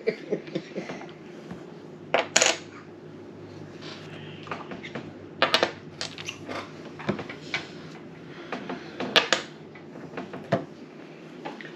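Small hard game pieces clicking and clinking against each other and the table, in scattered separate knocks with a few louder clacks, over a steady low hum.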